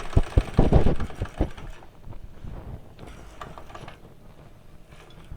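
Wilesco D419 model steam showman's engine running, its gear train clattering in a rapid, regular knock, loud for about the first second and a half and then quieter. The owner puts the noise down to a brass middle drive gear slightly out of true, which binds at a tight spot against the small gear on the flywheel.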